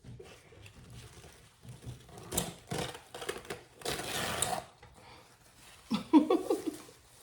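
Handling noises at the table: a few sharp clicks and rattles, then a rustling scrape lasting most of a second about four seconds in. About six seconds in comes a short hummed or grunted vocal sound.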